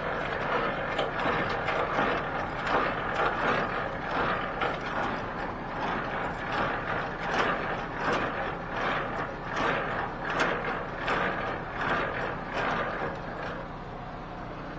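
Semi-trailer landing gear being cranked up by hand: the crank turning the gearbox with a continuous run of ratcheting, clicking gear noise that eases off near the end.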